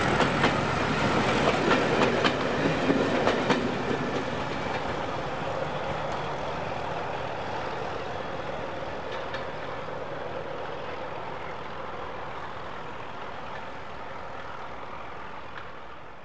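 Diesel-hauled train running on the rails, its wheels clicking regularly over the rail joints at first, then the rumble fading steadily away as the train moves off.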